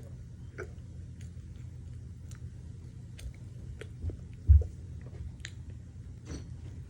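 A person chewing and biting food close to the microphone, with scattered small wet mouth clicks. A single dull low thump sounds about four and a half seconds in, the loudest thing here.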